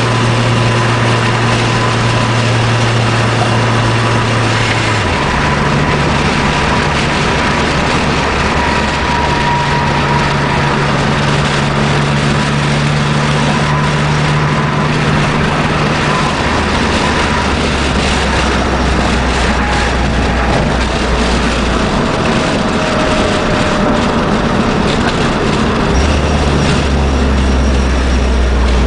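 Exhaust and engine note of a supercharged Nissan Sentra SE-R Spec V's 2.5-litre four-cylinder, breathing through a Nismo exhaust, on the move. The note holds steady and then steps to a new pitch three times as engine speed changes.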